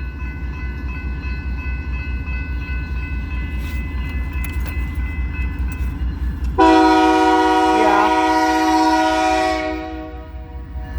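Diesel locomotive approaching with a steady low rumble. About six and a half seconds in, its multi-chime air horn sounds one long, loud blast of about three seconds, then fades, leaving the rumble.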